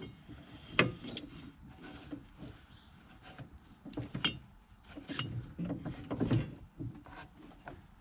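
Scattered knocks and clunks of hands working a V-belt into the pulley groove on a finish mower deck, the belt having ridden up out of its groove. A steady high insect chirr, like crickets, runs underneath.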